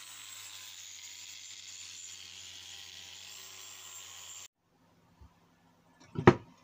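Faint steady hiss with a low hum that cuts off abruptly, followed after a short silence by a single sharp knock.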